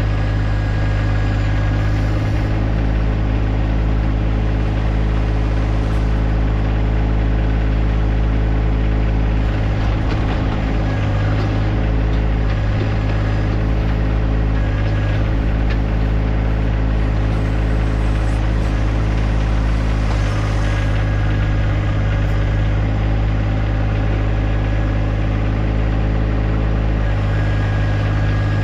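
A John Deere 1025R compact tractor's three-cylinder diesel engine running steadily, with a faint high whine that comes and goes.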